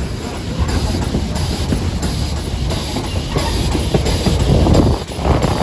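Steam train running along the track, heard from a carriage: a steady rumble of wheels on rail, dipping briefly about five seconds in.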